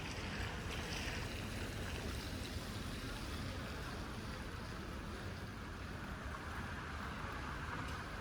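Steady rushing outdoor street ambience with a low rumble underneath, a hiss that grows a little stronger in the second half.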